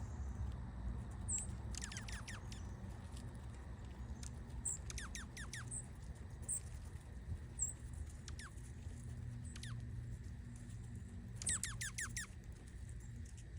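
Small wild birds chirping: clusters of quick, high chirps that sweep sharply down in pitch, in bursts about two seconds in, around five seconds in, and near the end, with a few single high notes between, over a steady low hum.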